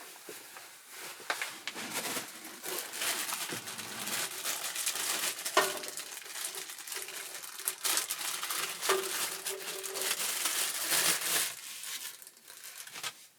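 Plastic packaging crinkling and rustling as it is handled and unwrapped, with a few sharper clicks.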